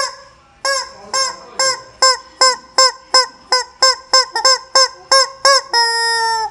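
A chicken giving a run of short, loud honking squawks, about two to three a second, then one long drawn-out squawk near the end.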